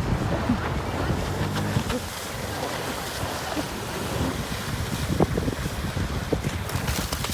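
Jet ski running on open water, with wind buffeting the microphone in gusts over the water and engine noise.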